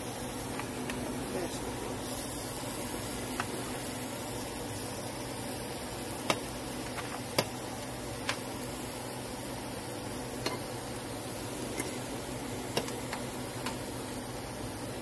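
Stir-fry vegetables and browned chicken breasts sizzling steadily in a hot skillet, with a few sharp clicks scattered through.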